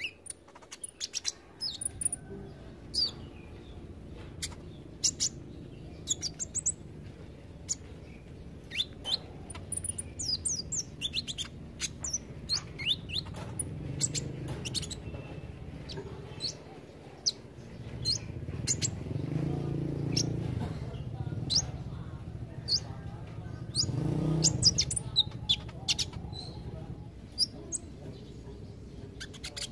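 Kolibri ninja sunbird singing: a rapid run of short, sharp high-pitched chirps and twittering trills, over a low background rumble.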